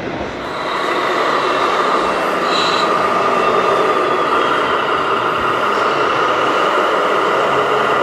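A vehicle running steadily, growing louder about half a second in, with a brief high squeal near the middle.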